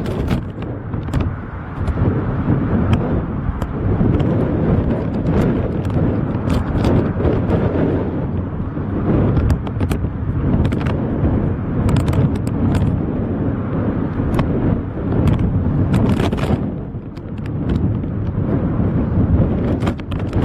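Storm wind buffeting the microphone: a loud, low, gusting roar that swells and eases, with scattered crackles.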